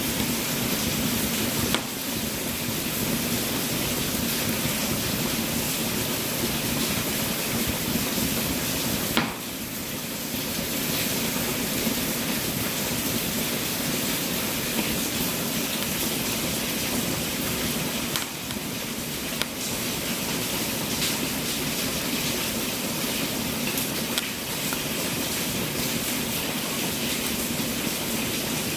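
Wood fire burning in a fireplace: a steady hiss with scattered crackles and a sharp pop about nine seconds in.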